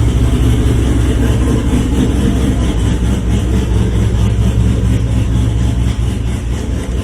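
Turbocharged LQ9 6.0-litre V8 in a Nissan 350Z idling loudly and steadily shortly after a cold start.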